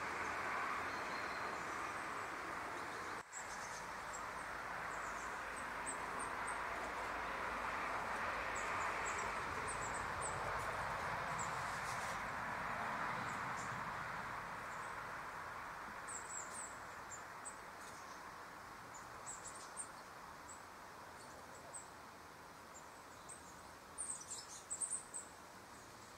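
Outdoor ambience: a steady rush that slowly fades, with small birds' short, high, thin chirps scattered through it and a quick cluster of sharp clicks and chirps near the end.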